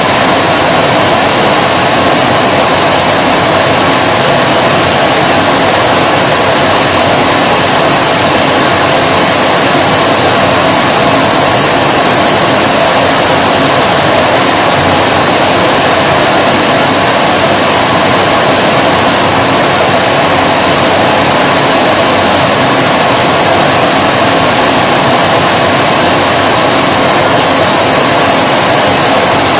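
Vacuum cleaner running steadily: a constant loud whoosh of rushing air with a faint motor whine held at one pitch, never changing.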